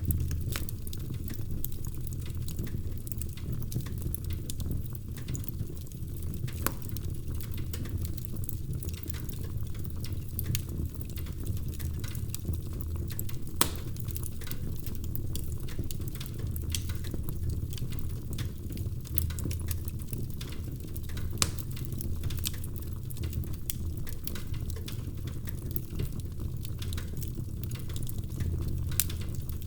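Wood fire burning in a fireplace: a steady low rumble of the flames with frequent small crackles and a few sharper pops.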